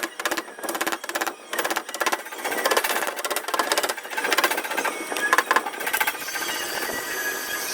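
Rapid light metallic tapping on a car body panel, several taps a second in uneven runs, as when a dent repairer knocks down high spots with a tap-down tool in paintless dent repair. The tapping thins out into a steadier noise near the end.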